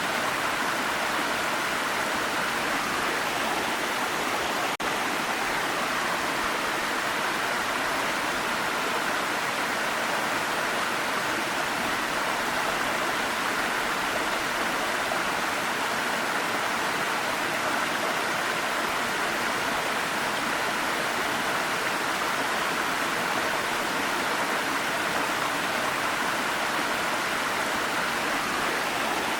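Waterfall rushing: a steady, even wash of falling water, with one brief dip in level about five seconds in.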